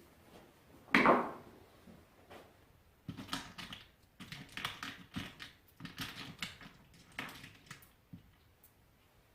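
A loud clank with a short ringing tail about a second in, then four short runs of clicking and rattling: tools and parts being handled on a workbench during the restoration work.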